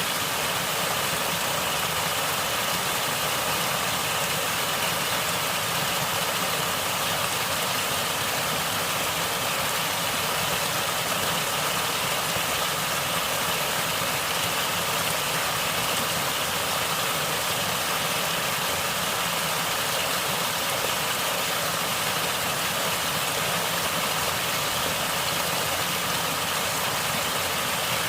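Natural water flowing and gurgling: a steady rush of water that holds even without any change.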